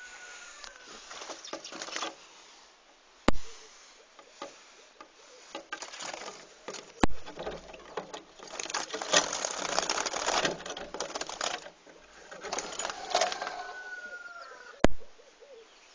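A small bird trapped at a window fluttering and scrabbling in irregular bursts, with a faint falling chirp near the end. Three sharp knocks stand out, a few seconds apart.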